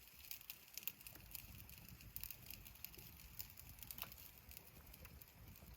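Faint, scattered crackling and ticking from a wood campfire burning, with a low background rumble.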